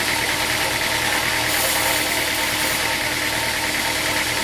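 Sawmill machinery running with a steady engine-like drone. A brief high hiss comes in for about a second, a second and a half in.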